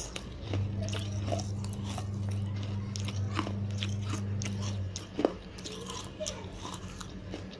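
Close-up chewing and crunching of broken clay-pot (gullak) pieces in the mouth, with many short sharp crunches throughout and a louder crunch about five seconds in. A low steady hum runs from about half a second in until about five seconds in.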